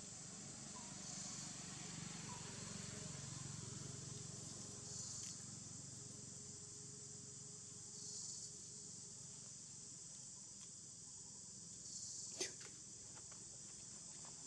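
Steady high-pitched insect drone that swells about every three to four seconds, with one sharp click about twelve seconds in.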